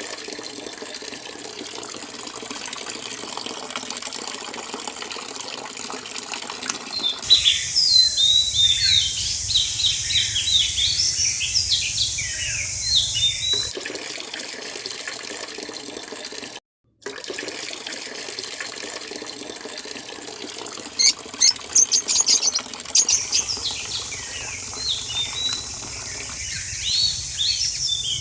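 A steady, water-like rushing with two long spells of many small birds chirping rapidly, about a quarter of the way in and again in the last third.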